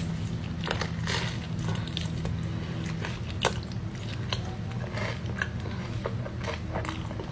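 Close-miked eating sounds: a person biting and chewing food, with scattered short wet mouth clicks and light crunches over a steady low hum.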